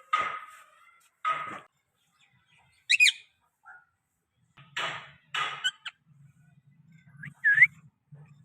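Pet parrot calling in short harsh bursts, with a quick rising whistle about three seconds in and another near the end. A low hum comes in about halfway.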